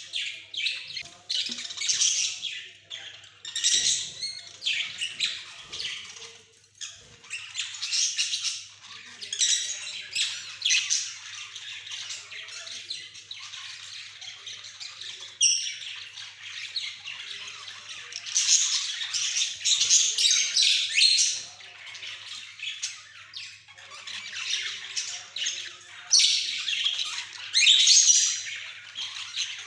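Pet budgerigars chattering: a dense, continuous run of high chirps, warbles and squawks, swelling louder in bouts every several seconds.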